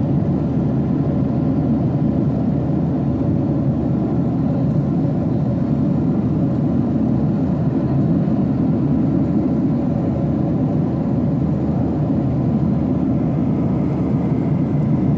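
Steady cabin noise of a Boeing 737-800 in flight: a constant low rush of airflow and engine drone, with a few faint steady hum tones above it.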